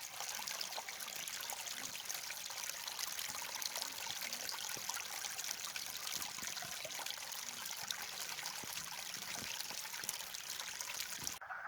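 A dense chorus of many frogs calling together from a pond, heard as a steady crackle of fine overlapping clicks.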